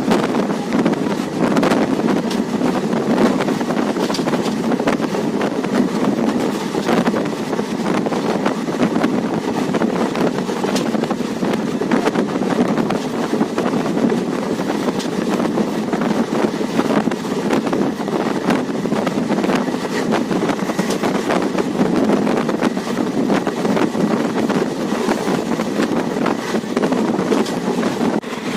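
Passenger train running at speed, heard from aboard: a steady rumble of the coach on the track with wind buffeting the microphone and occasional faint clicks.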